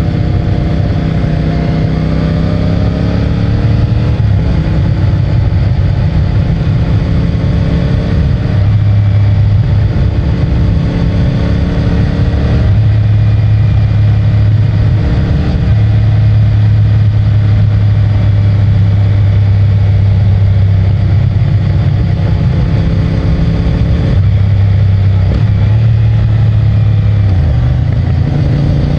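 CFMOTO 450MT's parallel-twin engine on its stock exhaust, riding along. The engine pitch steps and glides up and down several times through gear changes and throttle, and rises near the end, over a steady rush of wind and road noise.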